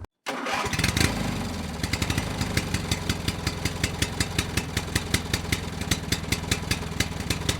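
Toro TimeMaster mower's small engine running unloaded, with a sharp knock about a second in and a steady run of sharp ticks about five a second on top of the engine note. This is the engine the owner describes as surging when it is not under load.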